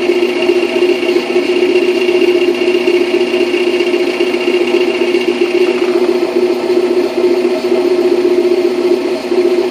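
Toyota MR2 Spyder's 1.8-litre four-cylinder engine idling, with a steady high-pitched whine over the engine hum that stops about six seconds in. The noise comes from the transmission, and the owner found the clutch throw-out bearing needed replacing.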